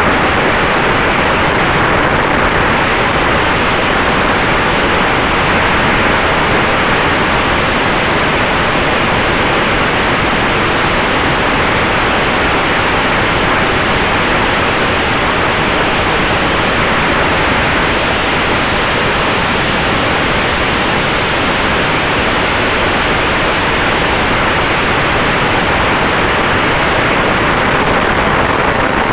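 Steady, loud rush of airflow and propeller noise in the cockpit of a Sonex Xenos electric airplane in flight, with a faint steady whine.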